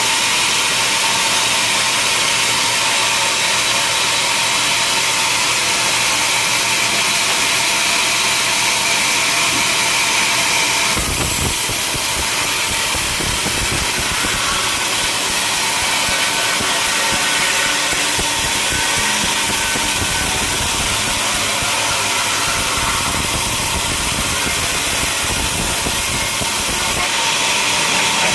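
Sawmill machinery running steadily, a motor drone with a steady whine. About eleven seconds in the sound changes abruptly to a heavier low rumble.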